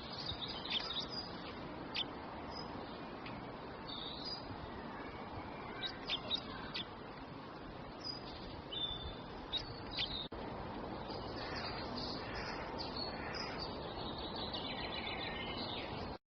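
Small birds chirping and whistling in short, scattered calls over a steady background hiss. The sound drops out for an instant about ten seconds in and cuts off suddenly near the end.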